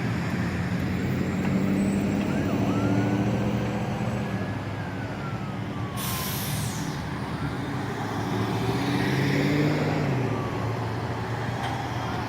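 Heavy truck engine running close by, its hum swelling and fading as it moves, with a hiss of air brakes about six seconds in.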